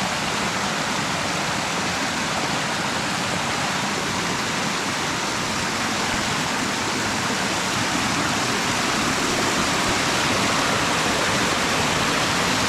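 Stream rapids rushing over rocks: a loud, steady roar of white water.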